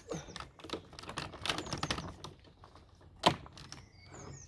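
Plastic clicks and rattles as the power cable is unwound and taken off the Dyson DC04 upright vacuum's cable hooks, with one sharp click about three seconds in. Faint bird chirps sound in the background.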